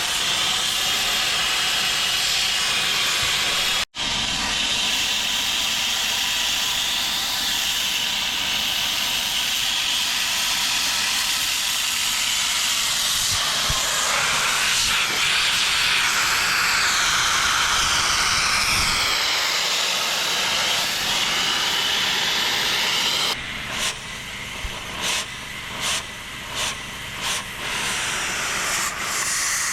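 Oxy-fuel torch flame hissing steadily as it heats steel that is not yet hot enough to bend. It breaks off for an instant about four seconds in, and near the end the steady hiss turns uneven and pulsing.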